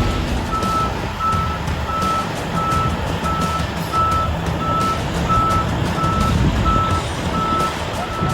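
A truck's reversing alarm beeping, a single tone repeating evenly nearly twice a second, over the low rumble of the truck's running engine.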